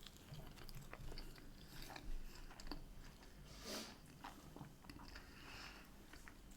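A person eating fish and chips close to the microphone: quiet chewing and small mouth clicks, with one brief louder noise a little before four seconds in.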